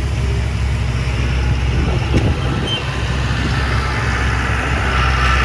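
Heavy diesel earthmoving machinery running under a steady, deep engine drone, with a rougher mechanical rushing noise building toward the end.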